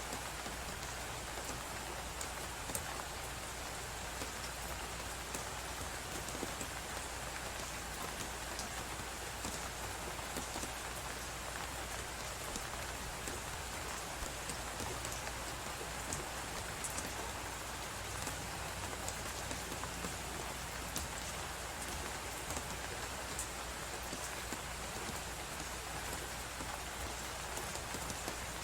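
Crackling wood fire with a steady blizzard wind hissing behind it: a constant even hiss dotted with many small, irregular pops.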